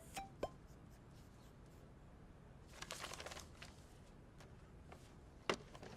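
Quiet room tone with a few faint, light clicks near the start, a brief patch of rustling clicks about three seconds in, and one sharper click near the end.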